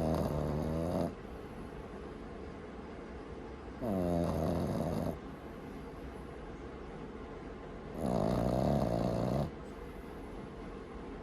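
Boston terrier puppy snoring loudly in its sleep: three long snores about four seconds apart, each lasting a second or so.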